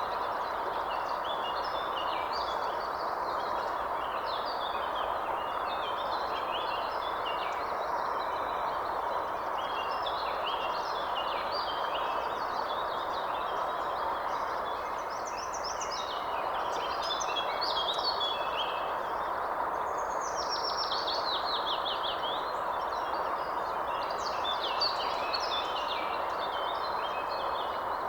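Several birds chirping and singing over a steady rushing background noise, with a quick run of falling notes about twenty seconds in.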